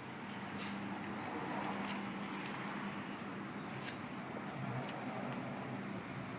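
Dog chewing and gnawing on a raw frozen chicken quarter, with a few sharp clicks as teeth meet meat and bone, over a steady low hum.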